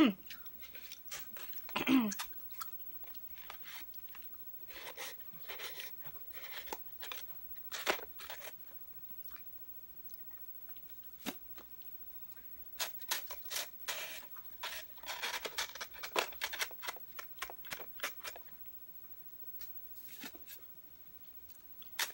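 Eating sounds close to the microphone: chewing, with irregular clicks and crunchy bursts, and sipping a slushy through a straw. There is a quieter spell about halfway through.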